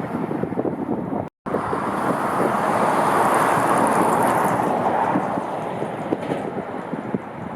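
Jet airliner engines passing, the rushing noise swelling to a peak about three to four seconds in and then easing off, with wind buffeting the microphone throughout. The sound drops out completely for a moment just over a second in.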